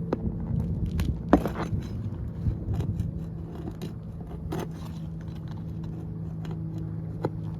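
Metal tool clinking and scraping against roofing nails and shingles while nails are worked loose, with a handful of sharp clicks spread out over a steady low hum.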